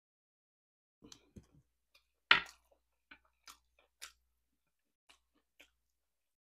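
Mouth sounds of a person eating: after about a second of quiet, a string of short wet chewing clicks and smacks, with one much louder smack about two seconds in.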